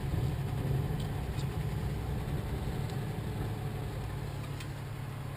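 A steady low mechanical drone, with a few faint ticks.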